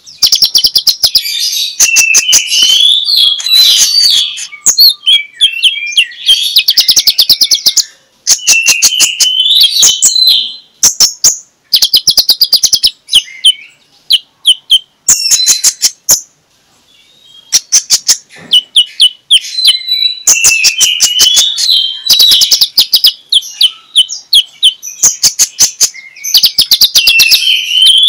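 Kolibri ninja sunbird singing: bursts of rapid, sharp ticking notes run into high twittering trills, with short pauses between the phrases.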